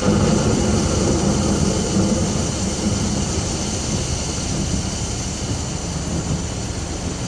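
Steady rain with a low, rolling rumble of thunder, heaviest in the first couple of seconds.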